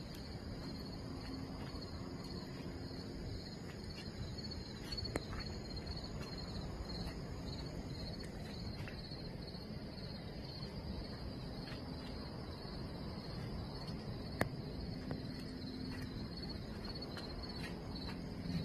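Crickets chirping: a faint, steady, high-pitched pulsing trill, with a small tap about fourteen seconds in.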